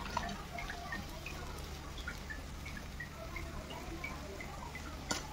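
Masala cooking in a pan over a wood fire: faint, scattered small pops and ticks, a few a second, over a low steady hum, with one sharp click near the end.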